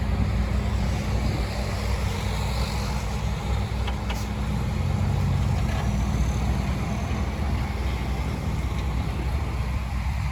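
Diesel engine of heavy earthmoving equipment running steadily, with a couple of faint clicks about four seconds in.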